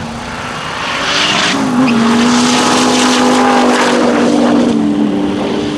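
A race car's engine running hard at speed, with a rush of noise that swells about a second in; its pitch steps down about five seconds in, as when the car passes by.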